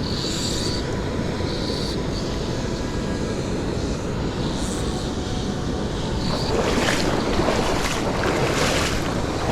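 Small stream's water running steadily, with wind on the microphone; the water noise grows louder about two-thirds of the way in.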